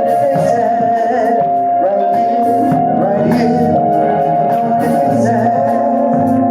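Contemporary gospel music with a jazz and R&B feel: singing over held keyboard chords.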